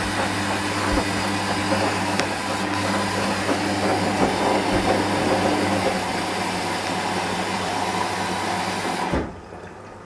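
Hoover Dynamic washing machine taking in water for a rinse: a steady rush of water with a low electrical hum from the inlet valve, cutting off sharply about nine seconds in as the valve closes.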